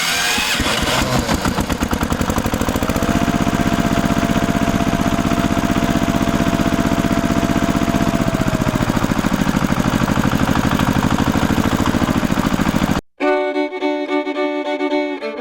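A tractor engine running with fast, even chugging, and a thin steady whine over it for several seconds in the middle. It cuts off suddenly near the end and fiddle music starts.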